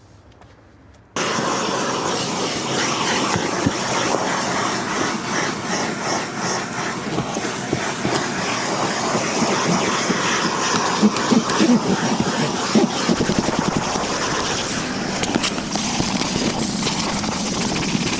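A vacuum cleaner running, cutting in abruptly about a second in, as a dense, uneven rushing noise.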